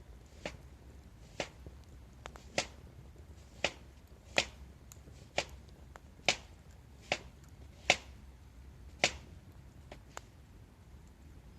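Wood burning in a campfire, crackling with sharp irregular pops about once a second over a faint low rumble.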